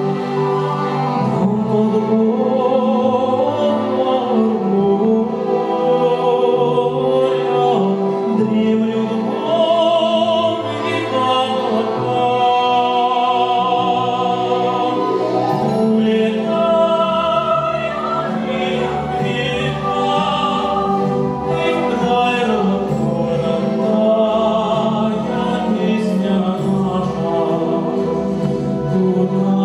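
A male solo singer with a chamber choir and grand piano performing a slow, lyrical choral piece live, with sustained sung notes and vibrato; the lower accompaniment fills out about halfway through.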